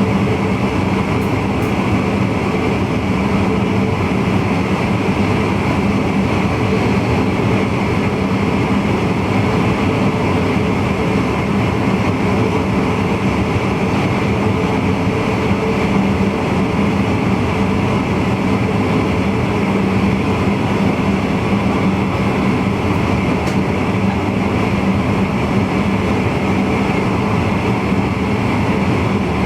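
Steady running noise of a VIRM double-deck electric intercity train, heard from inside the driver's cab, with a constant low hum underneath.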